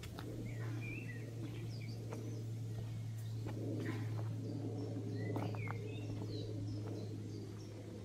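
Small birds chirping: many short, quick chirps scattered throughout, over a steady low hum and a few faint clicks.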